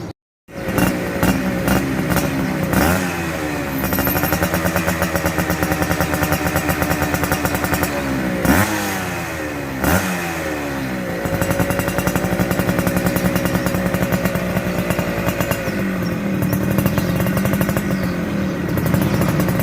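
Yamaha F1ZR two-stroke motorcycle engine running through a stainless racing exhaust, revved up and down several times with rising and falling pitch, then settling into a steady pulsing lower note from about halfway in.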